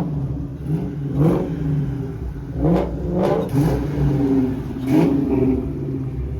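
Ford Mustang's engine being revved in several quick blips, its pitch rising and falling about five times over a steady low idle rumble.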